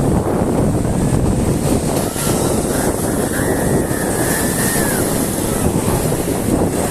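Sea surf breaking on a shore, with strong wind buffeting the microphone into a steady low rumble. A faint thin whistle-like call glides briefly near the middle.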